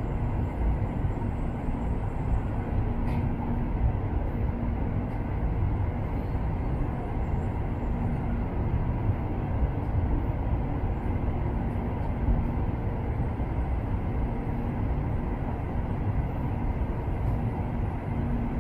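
Shinkansen bullet train in motion: a steady low rumble with a faint hum that comes and goes.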